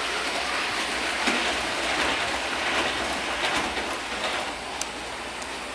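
HO-scale four-car Class 390 Pendolino model train running fast on its track: a steady rushing hiss of motor and wheels on rail, with a few light clicks, easing slightly near the end.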